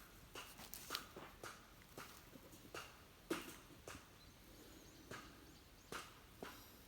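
Faint, irregular light knocks and crunches, about a dozen over a few seconds, closer together in the first half and sparser after.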